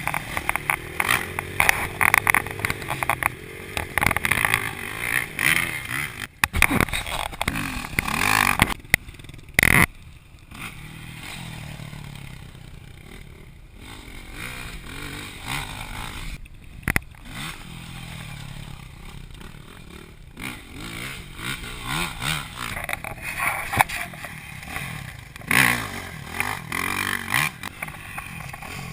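Dirt bike engine running and revving, its pitch rising and falling, with many sharp knocks and rattles over it. It drops to a quieter run in the middle and comes up louder again near the end.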